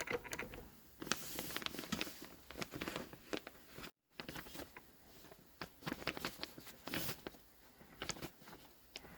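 Fabric being handled and positioned by hand: soft rustling with small irregular clicks and taps, with a brief dropout about four seconds in.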